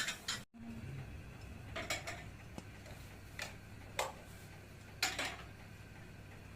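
A few short, separate clinks and knocks of small objects being handled, spaced about a second apart, over a faint steady low hum.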